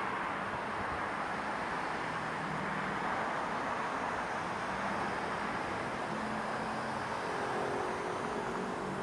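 Steady residential-street ambience: an even rush of distant traffic noise, with a faint low hum joining in near the end.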